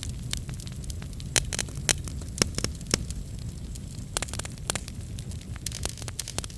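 Wood fire in a fireplace crackling, with irregular sharp pops over a steady low rumble of the flames; a few louder pops come in the first half.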